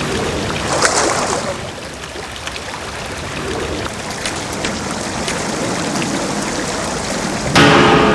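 Steady rush of running water with a few small clicks in it. Near the end a louder pitched sound briefly joins it.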